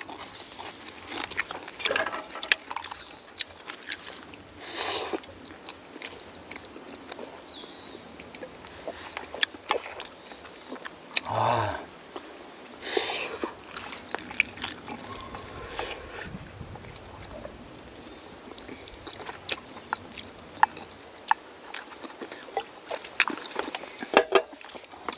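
Eating at a table: chewing and slurping of jjajangmyeon noodles, with many scattered light clicks of chopsticks and utensils against bowls, and a few short louder bursts about five, eleven and thirteen seconds in.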